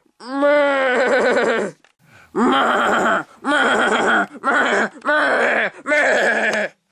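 A person's voice making a series of about six loud, drawn-out wordless sounds, wavering in pitch.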